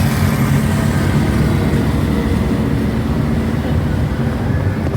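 A steady low engine drone with a constant rushing noise over it.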